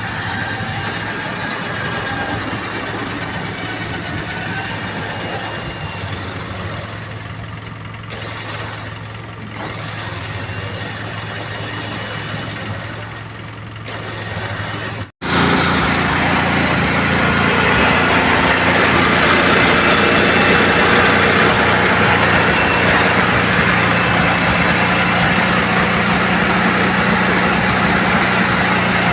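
Volkswagen Beetle's air-cooled flat-four engine idling steadily. About halfway through the sound cuts out for an instant, then the engine carries on running louder.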